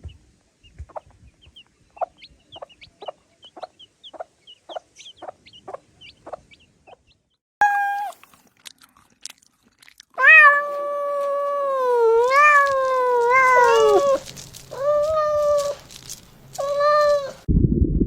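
Cat meowing. A run of short, soft clicking calls comes first, then a short meow about eight seconds in, a long wavering meow that falls at its end, and two shorter meows. A loud low rumble begins in the last half second.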